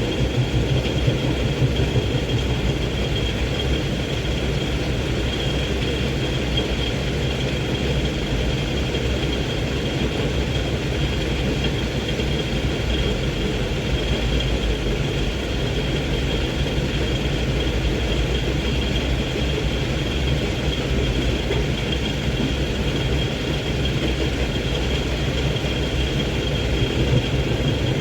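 Hino 500 dump truck's diesel engine running steadily as the fully laden truck climbs an incline. A thin, steady high tone sits above the deep engine sound.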